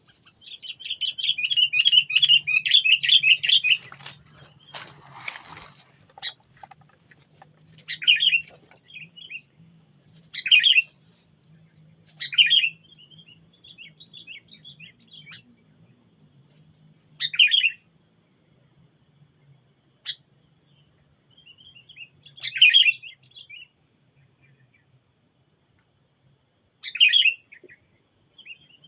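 Sooty-headed bulbul (kutilang) calling: a long chattering phrase near the start, then short calls every few seconds, with a brief rustle about five seconds in.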